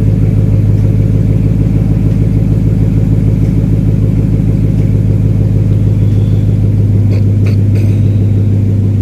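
2012 Ford Mustang GT's 5.0-litre Coyote V8 idling steadily, with a few faint clicks near the end.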